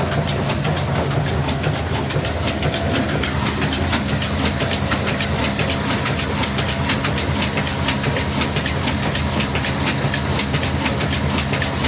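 Old diesel engine running steadily, a low even hum with a sharp regular tick about three times a second.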